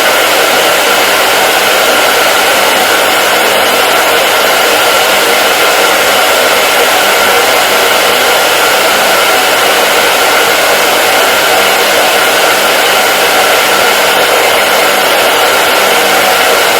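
Hair dryer running continuously at a steady pitch and level: a constant rushing hiss of airflow with a faint motor whine.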